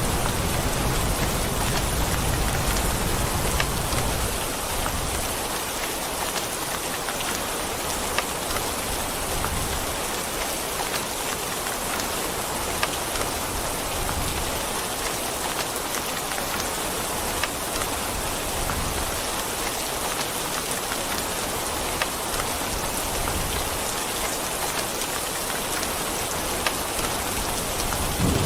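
Steady heavy rain falling, with scattered individual drops ticking through the even hiss. A low rumble underneath fades out over the first few seconds.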